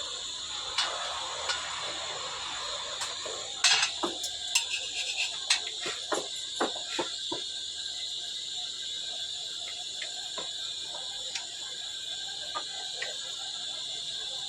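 Steady high-pitched insect chorus, with a cluster of sharp clicks and knocks between about three and a half and seven and a half seconds in, and a few single ticks later.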